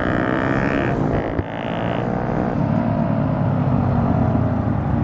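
Motorcycle engine running steadily under way. About a second and a half in, it briefly drops in level, then picks up again.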